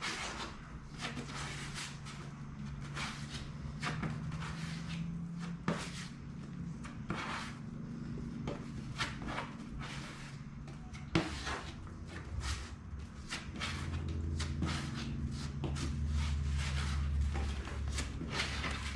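Bondo body filler being folded together with its hardener, the mixing tool scraping and clicking against the filler and mixing surface over and over. A low steady hum runs underneath and grows louder past the middle.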